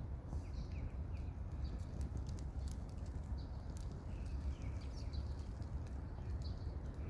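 Small songbirds chirping in short, scattered calls and brief slurred notes, over a steady low rumble.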